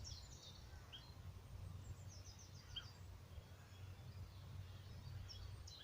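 Faint songbirds chirping, with a few short high trills about two seconds in, over a steady low rumble.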